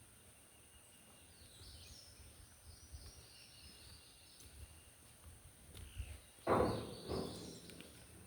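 Quiet outdoor ambience with faint high bird chirps. Near the end come two short, louder noisy sounds, a fraction of a second apart.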